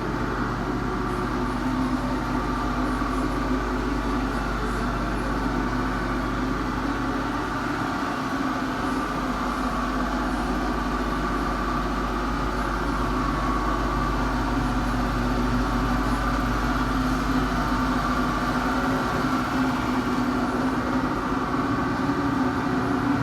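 Steady machine hum with a constant pitch and an even drone, unchanging throughout.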